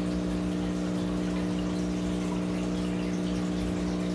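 Aquarium equipment running: a pump hums steadily while water trickles and splashes.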